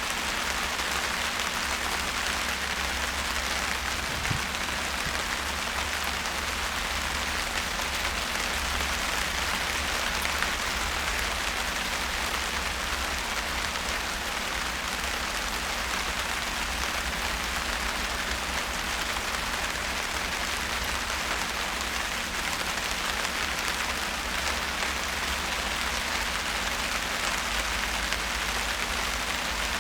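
Steady rain falling, with an even level throughout.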